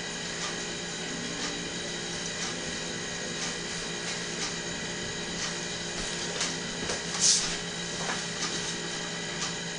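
A steady mechanical hum made of several fixed tones, with faint ticks about once a second and one short hiss about seven seconds in.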